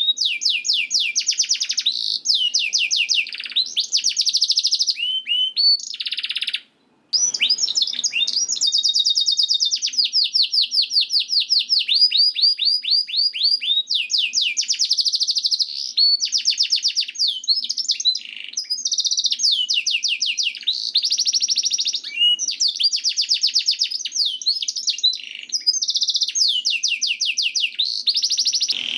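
Domestic canary singing a long, continuous song of fast trills and rolls, each phrase a rapid run of repeated high notes, with a brief break about seven seconds in.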